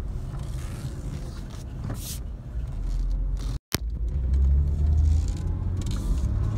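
1998 Mercedes-Benz CLK320's 3.2-litre V6 and tyre noise heard from inside the cabin while driving slowly, the low engine note moving as the 722.6 five-speed automatic shifts. The owner says it is now shifting perfectly after a new conductor plate. The sound breaks off for a split second just past halfway.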